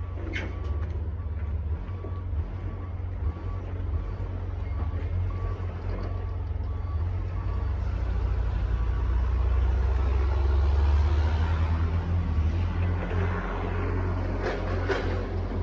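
Truck engine running with a steady low rumble that grows louder about ten seconds in, while a backup alarm beeps steadily through the first half. Two sharp knocks, one near the start and one near the end.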